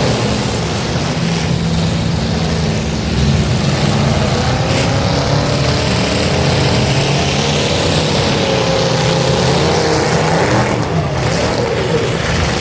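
Demolition derby cars' engines running loudly together, revving up and down.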